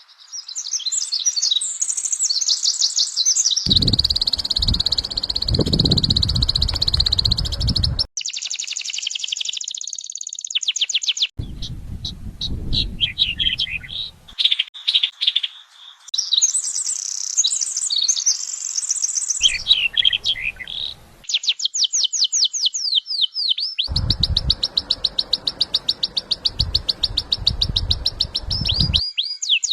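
Songbirds singing in a series of short recordings joined one after another: high chirps and warbles, then fast trills of quickly repeated sweeping notes, the character changing abruptly every few seconds. Some of the stretches carry a low rumble underneath the song.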